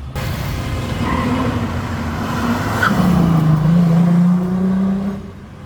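A car passing with its engine accelerating over road and tyre noise: the engine note comes in strongly about three seconds in and climbs a little, then cuts off sharply near the end.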